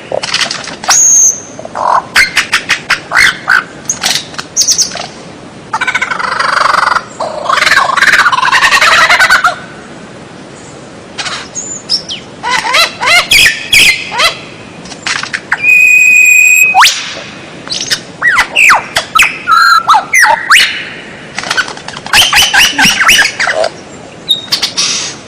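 White-rumped shama singing a varied, loud song: phrases of rapid clicking trills and chattering, quick rising and falling whistles, and one long steady whistled note about two-thirds of the way through, with short pauses between phrases.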